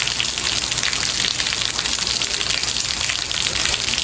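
Steady heavy rain: a dense, even hiss of countless drops that never lets up.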